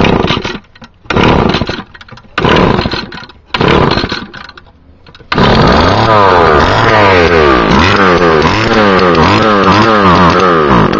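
Cold two-stroke whipper snipper engine being pull-started, giving four short bursts in the first four seconds, then catching about five seconds in and running with its revs swept up and down again and again, on the last of a little nitro fuel left in the tank.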